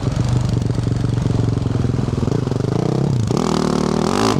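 2024 Yamaha YZ450F's single-cylinder four-stroke engine running through a Yoshimura RS-12 exhaust at moderate revs under way. About three seconds in it revs up harder.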